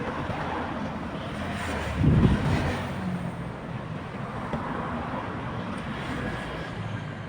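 Tugboat engine running steadily, a continuous low mechanical rumble that swells louder for about a second, roughly two seconds in.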